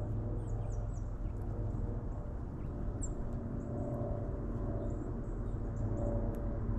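Small birds chirping at the feeders: many short, high, falling chirps scattered throughout, over a steady low outdoor rumble with a faint hum that swells and fades twice.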